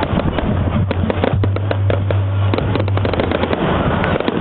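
Fireworks going off in quick succession: a dense run of sharp bangs and crackles, several a second, over a steady low hum through the middle.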